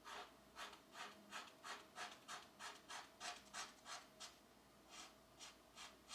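Colored pencil shading on paper: soft back-and-forth scratchy strokes, about three a second, pausing briefly past the middle before starting again.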